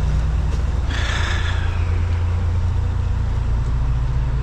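Heavy equipment engine running steadily with a low rumble, with a short hiss about a second in.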